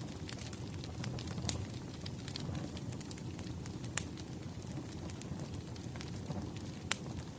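Wood fire crackling: a low steady rush of flames with scattered sharp pops, the loudest about four seconds in and another near the end.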